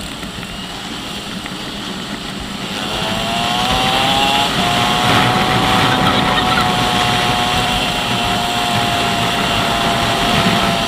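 Motorcycle engine pulling under rising revs about three seconds in, then holding a steady pitch, under a constant rush of wind noise on the microphone.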